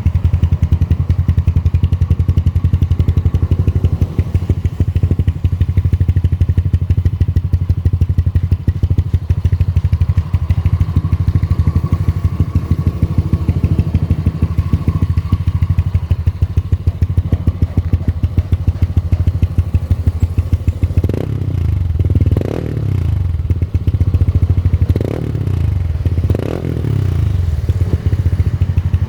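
Yamaha NMAX scooter's single-cylinder four-stroke engine, bored up to 180cc, idling through an aftermarket racing exhaust with a fast, even pulse. About two-thirds of the way through the throttle is blipped four times, each rev rising and falling quickly, and it settles back to idle.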